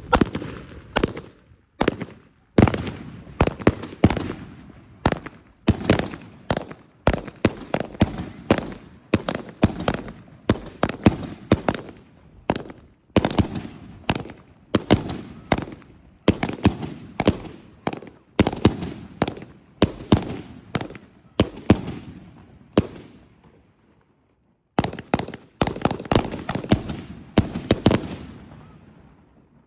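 Consumer multi-shot firework cake firing a rapid string of sharp bangs, about two to three a second, each trailing off in a short echo. There is a pause of about two seconds near the end before the shots start again.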